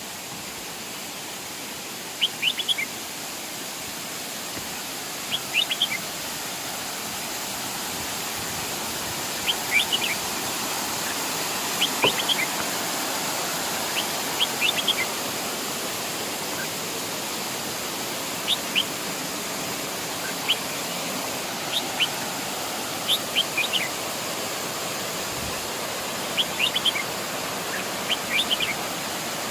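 Waterfall rushing steadily, with a bird giving short clusters of three or four high chirps every couple of seconds.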